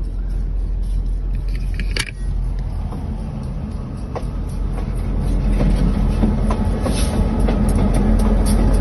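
Train running, a steady low rumble that grows louder from about halfway through, with one sharp knock about two seconds in and faint rattling ticks.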